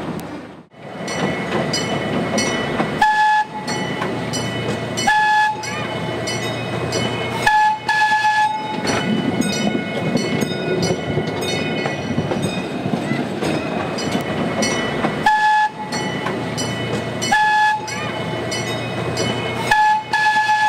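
Miniature zoo train running along its track: a steady rumble with the wheels clicking over the rail joints, and the train's whistle giving about eight short toots.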